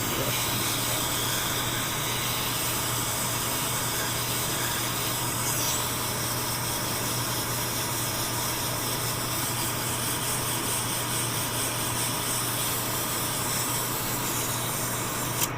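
A motor-driven machine running steadily, a constant hum under an even hiss, with a single sharp click near the end.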